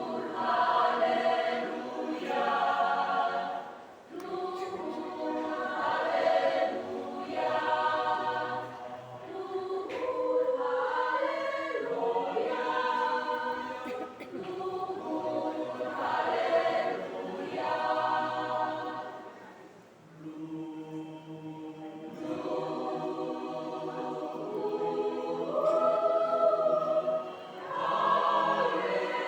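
A church choir singing in several voices, phrase by phrase, with short breaks between phrases.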